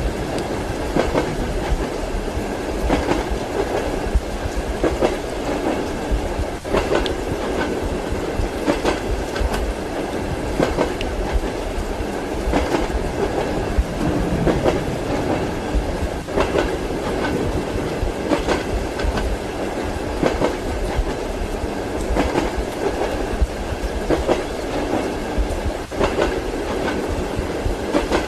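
Passenger train running steadily, a continuous low rumble with the clickety-clack of the wheels over rail joints every second or two.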